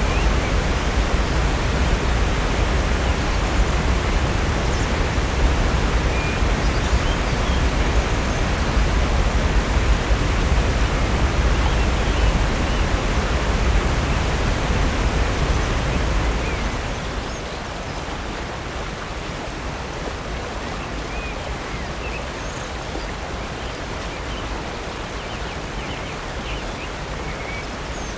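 A waterfall rushing steadily, with a deep low rumble under the hiss of falling water. About two-thirds of the way through, it drops abruptly to a quieter, lighter water rush with much less rumble.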